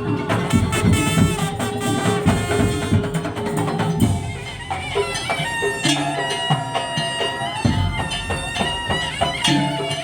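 Madurese tong-tong (daul) ensemble playing: dense, fast drumming under a wind-instrument melody. About four seconds in the drumming thins out and long held melody notes come forward.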